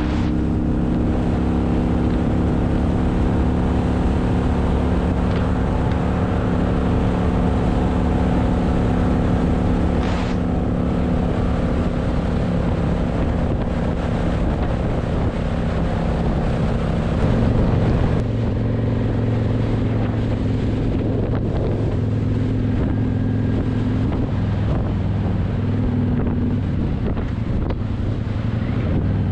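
Motorcycle engine running at a steady cruise with wind noise on the microphone; about 18 seconds in the engine note drops to a lower pitch and holds there.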